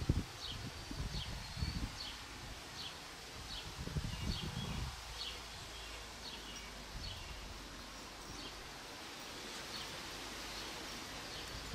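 A small bird chirping, short high notes about twice a second, over a steady outdoor hiss. A few low rumbles of wind on the microphone come in the first half.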